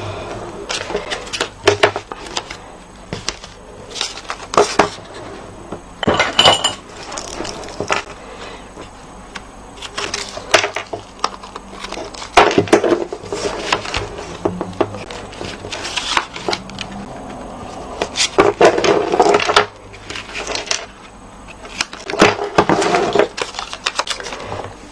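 Double-sided crafting tape being pulled off its roll and torn in several noisy bursts of about a second each, among clicks and taps of paper and supplies handled on a table.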